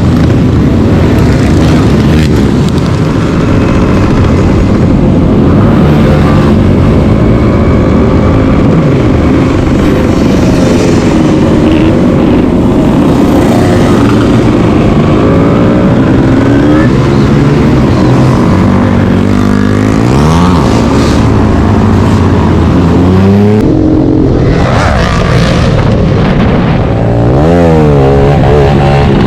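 Motorcycle engines running loud and revving, with several quick rises and falls in engine pitch in the second half.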